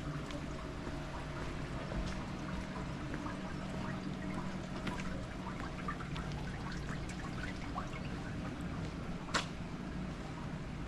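Water running and trickling, with many small drips ticking over it and a faint steady low hum underneath. A single sharp click stands out about nine seconds in.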